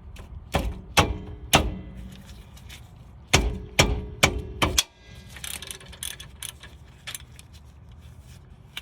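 Metal tools clicking and clanking against the 17 mm caliper pin bolts of a rear brake caliper as they are worked loose: about seven sharp strikes with a short metallic ring in the first five seconds, then lighter, scattered clicking.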